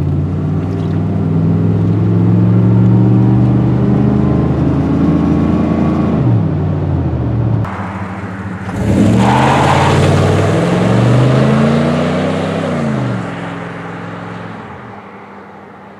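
1989 truck's engine through a Jones Max Flow single-in, dual-out exhaust, pulling hard with a rising pitch that drops at the gear shifts. A second hard pull a few seconds later comes with a loud rushing noise, then the sound fades away near the end.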